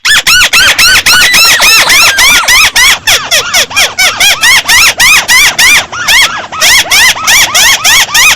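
A loud, volume-boosted recording of the bird that Vietnamese keepers call chim mắt xéo, calling: a rapid string of short, shrill notes, each rising and then falling in pitch, at about four a second.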